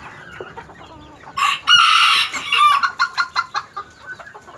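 A rooster crowing once, loud and harsh, about a second and a half in, followed by a run of short clucks from chickens.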